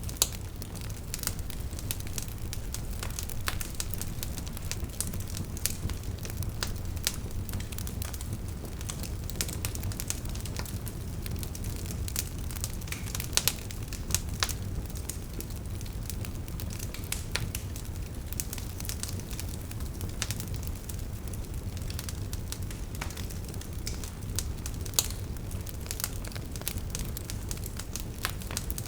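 Wood fire burning, logs crackling and popping irregularly over a steady low rumble of the flames, with a few sharper pops.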